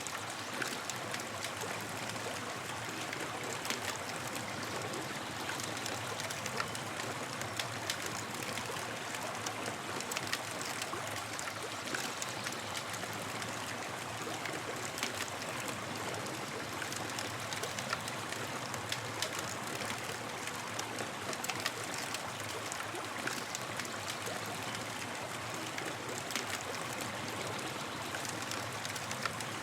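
Campfire crackling: a steady hiss of burning wood with frequent small sharp pops throughout.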